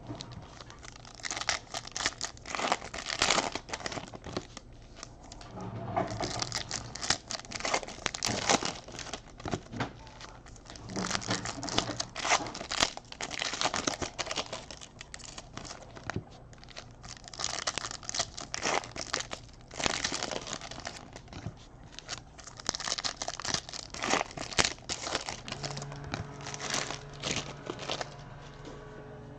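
Panini Prizm Fast Break trading-card pack wrappers being torn open and crinkled, in repeated bursts of crackling with short pauses between.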